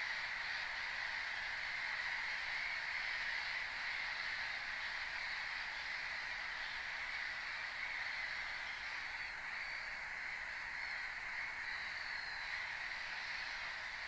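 A dense, steady chorus of many animals calling together at a wetland, with no single call standing out. A few higher, wavering calls come through from about two-thirds of the way in.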